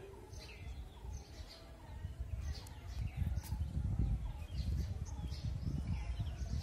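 Birds chirping in short high calls, several times, over a low rumble that grows louder about halfway through.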